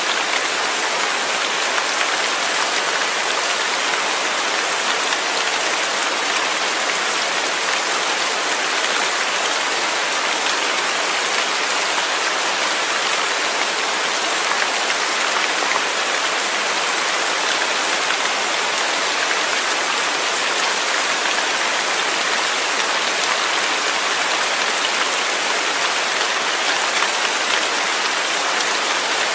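Steady rain falling, an even hiss of many drops on a surface, with no change in strength.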